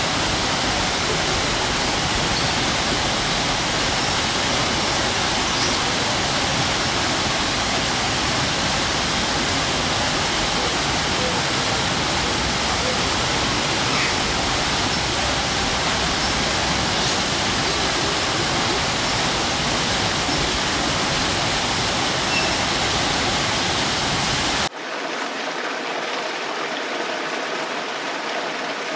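Waterfall: a loud, steady roar of falling water, deep rumble included. Near the end it cuts abruptly to a quieter, thinner rush of water with no low rumble.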